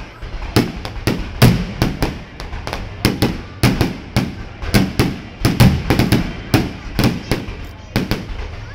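Aerial fireworks shells bursting overhead in quick, irregular succession, a few sharp bangs every second.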